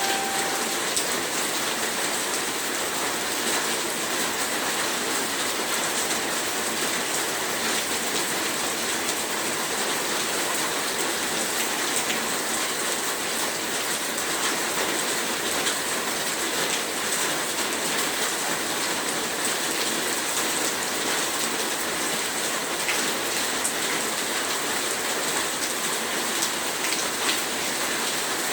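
Heavy rain falling steadily, a dense even hiss of drops with fine patter throughout.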